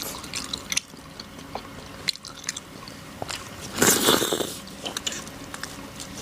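Close-miked chewing and biting on a soft, chewy stuffed food with a meat-and-vegetable filling: wet mouth clicks and smacks, with a louder, noisy burst about four seconds in.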